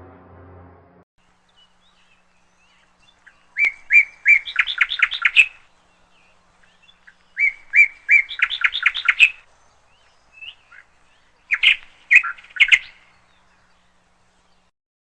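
A songbird singing three song phrases a few seconds apart, each a few clear notes running into a quick trill.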